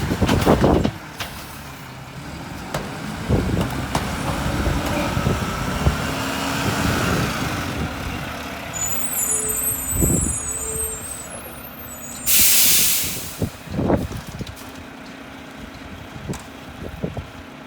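Mack LR garbage truck's diesel engine running, with a loud hiss of the air brakes lasting about a second, a little past the middle. Two short tones sound a few seconds before the hiss, and gusts of wind batter the microphone, hardest at the start.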